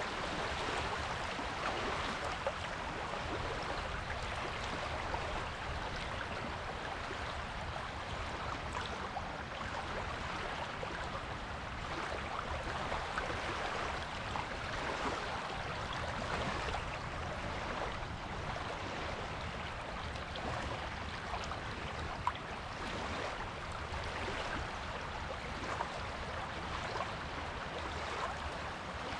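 Waves washing steadily onto a beach: a continuous hiss of surf with faint small crackles through it and no single big crash.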